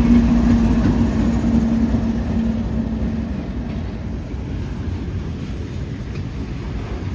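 Freight train rolling past, a steady low rumble of wheels on rail with a steady low hum that fades out about three seconds in; the whole sound slowly gets quieter.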